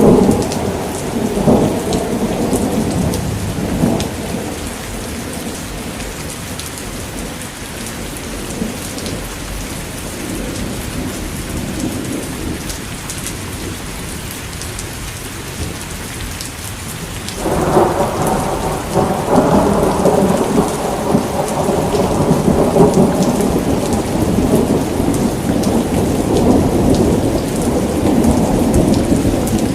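Steady heavy rain pattering, with thunder rumbling: a roll at the start dies away over the first few seconds, then a new deep rumble sets in suddenly a little past halfway and keeps rolling.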